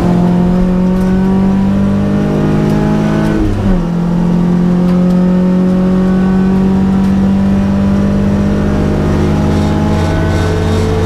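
Datsun P610 rally car's engine pulling under acceleration, its pitch climbing, then dropping sharply with a gear change about three and a half seconds in before climbing slowly again.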